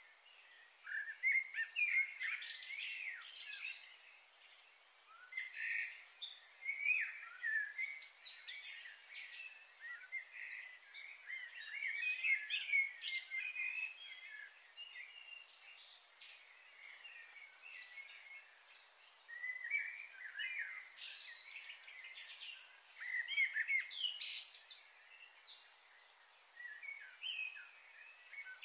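Songbirds chirping and singing in quick, twittering phrases that come in bouts of a few seconds, several times over, with quieter gaps between.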